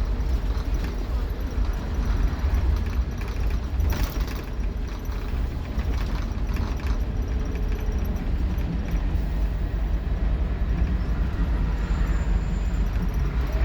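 Scania K230UB Omnilink bus engine running, heard from inside the saloon as a steady low rumble, with a short burst of rattles about four seconds in.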